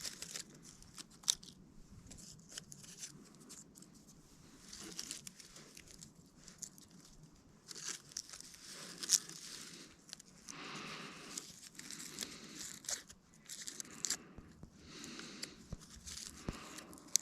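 Birch bark being torn and shredded by hand into fine strips: irregular bursts of tearing and crinkling, with a few sharp snaps.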